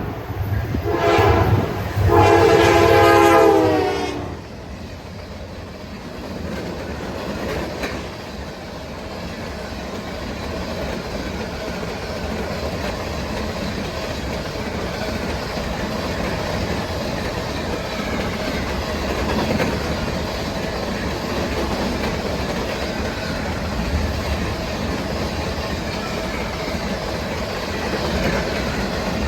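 Locomotive air horn sounding a short blast and then a long one that drops in pitch as it ends. The train's cars then roll past with a steady rumble and the clickety-clack of wheels on rail joints.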